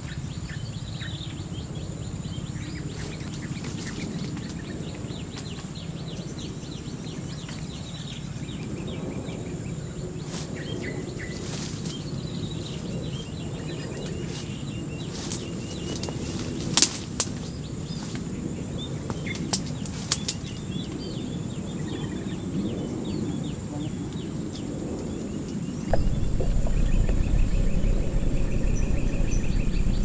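Outdoor ambience with scattered bird calls over a steady low rumble. A few sharp clicks come a little past halfway, and the low rumble gets abruptly louder near the end.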